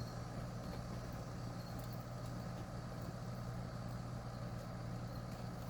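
Steady low mechanical hum, an unchanging drone with no starts or stops.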